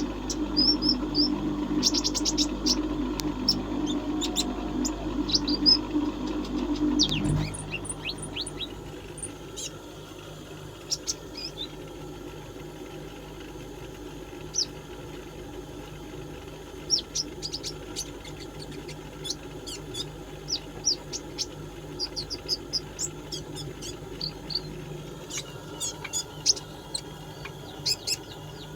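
Kolibri ninja sunbird singing: quick, high chirps and short trills delivered in scattered bursts. A steady low hum underneath stops abruptly about seven seconds in.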